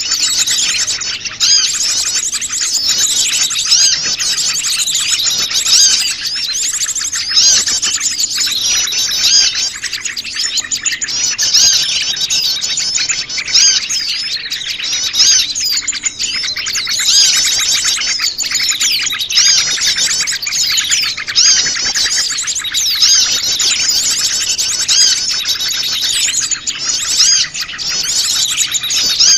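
Many small wild songbirds chirping and trilling at once in a dense, busy chorus: a mixed-species lure call meant to draw small birds in.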